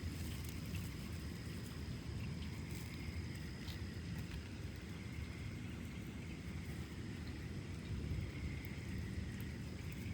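Outdoor thunderstorm ambience: a steady low rumble with faint, steady high-pitched tones above it and a few faint ticks.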